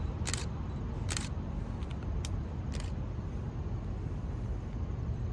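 Low, steady rumble of an approaching freight train, with several short, sharp clicks in the first three seconds.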